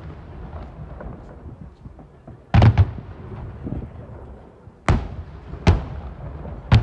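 Fireworks shells bursting in the sky: a pair of close bangs about two and a half seconds in, then three more single bangs in the last two seconds, with a low rumble in between.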